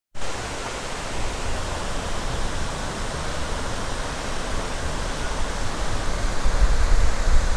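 Tad Yuang waterfall's falling water: a steady, even rush of noise, with a low rumble that grows a little louder near the end.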